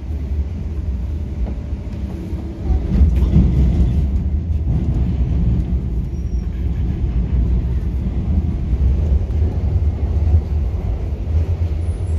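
Cabin noise of an MTR K-Train electric multiple unit under way: a steady low rumble of wheels on rails, heard from inside the car. It grows louder about three seconds in.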